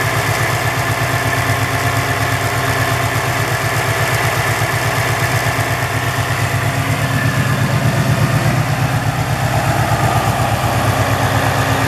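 2015 Ford Mustang GT's 5.0-litre Coyote V8 idling through Stainless Works headers and a catless exhaust: a steady, evenly pulsing low exhaust rumble.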